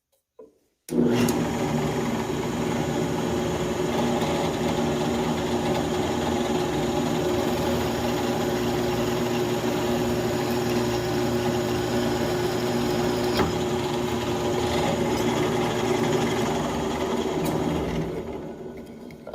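Electric drill running steadily while it drills stop holes at the ends of cracks in a cast-aluminium motorcycle rearset mount. It starts about a second in and winds down near the end.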